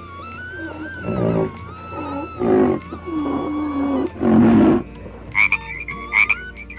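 Animal calls over soft background music: a series of about five loud, low calls with wavering pitch, then from about five seconds in, quick short high-pitched calls repeated in clusters.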